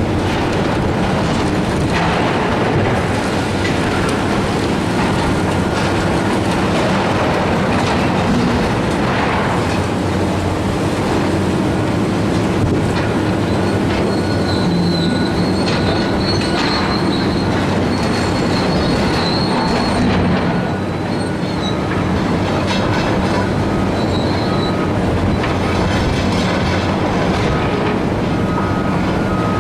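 Heavy demolition machinery working on a steel-framed building: a steady engine drone under a constant din of grinding metal, with a thin, high metal squeal from about fourteen to twenty-five seconds in.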